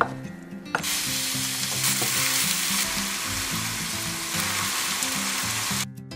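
Ground pork and fried tofu cubes sizzling loudly in a frying pan, a steady hiss that starts about a second in and cuts off abruptly near the end. A knife chop on a cutting board is heard at the very start, with background music under it all.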